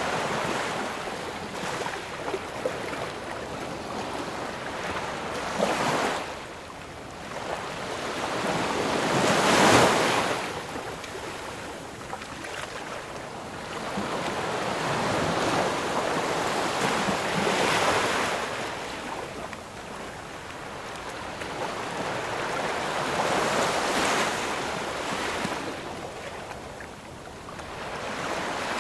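Ocean surf: waves breaking and washing back in slow swells every several seconds, the loudest about a third of the way in.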